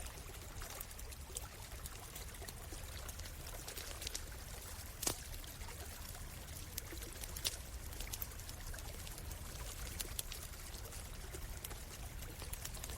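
Stream flowing and trickling steadily, with a campfire crackling over it in scattered sharp pops, the loudest about five seconds in.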